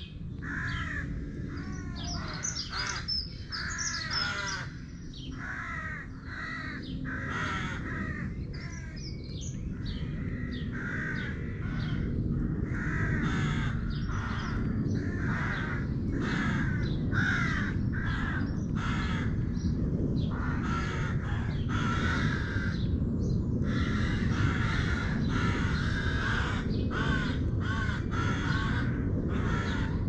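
Birds calling over and over in short repeated calls, several a second, with higher chirps mixed in during the first ten seconds. A low background rumble grows louder about twelve seconds in.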